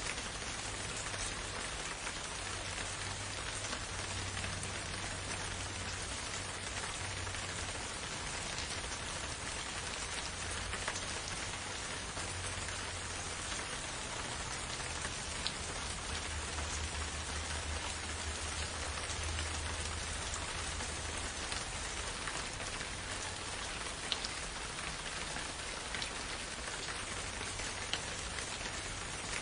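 Steady rain in a forest: an even hiss with occasional sharper ticks of single drops.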